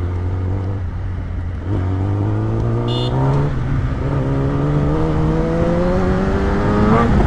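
Superbike engine pulling up through the gears: its note climbs, drops at a shift about three and a half seconds in, climbs again and shifts again near the end, under a rumble of wind and road noise. A short high beep sounds about three seconds in.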